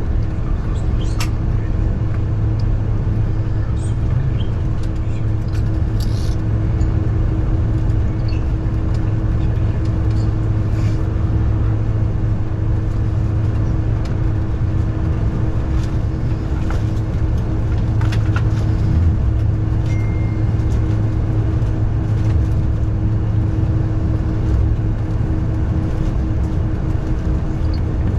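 Steady low rumble and hum inside the cabin of a Boeing 747-400, with a constant droning tone and a few faint clicks.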